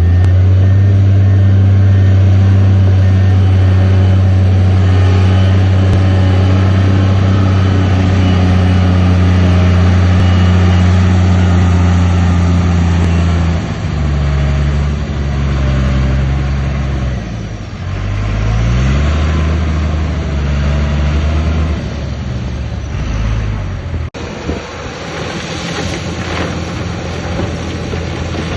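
Heavy earthmoving machine's diesel engine running hard and steady, dropping in pitch about halfway through, revving back up a few seconds later, then easing off near the end.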